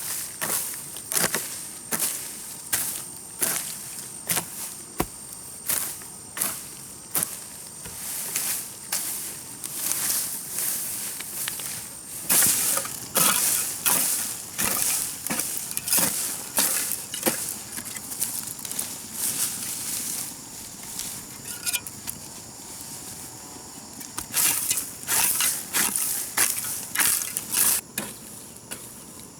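Garden hoe chopping and scraping into grassy soil, one stroke roughly every second, in runs with a quieter stretch just past the middle.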